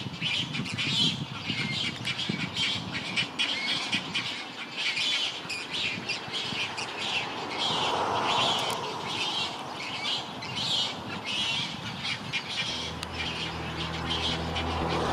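Many birds squawking and chirping at once, a dense chorus of short overlapping calls. Music comes in near the end.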